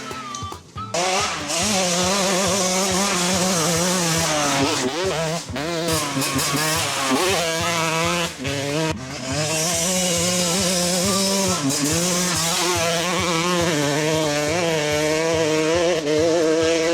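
1996 TM 125 two-stroke motocross engine being ridden hard, its pitch climbing and falling over and over as it revs out and shifts. The throttle is shut briefly just after the start and again about nine seconds in.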